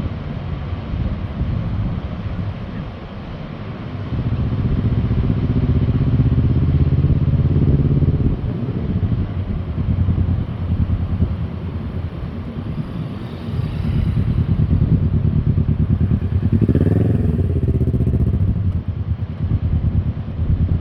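Adventure motorcycle engine running, getting louder about four seconds in and again about fourteen seconds in, with a short rev near the end.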